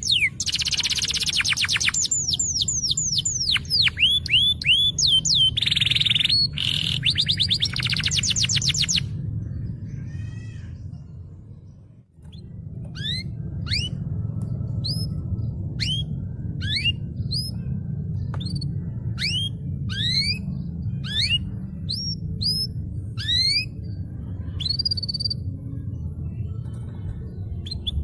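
Canary song: fast, dense trills and falling whistled sweeps for about nine seconds, fading out. After a short gap comes a run of separate sliding whistled notes, about two a second, over a steady low hum.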